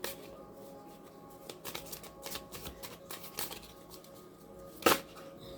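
Tarot cards being handled and shuffled: a run of light card clicks and flicks, with one sharper snap near the end.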